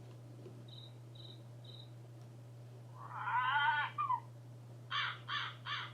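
Black bird calling: a longer bending call about three seconds in, then three harsh caws in quick succession near the end, over a steady low hum.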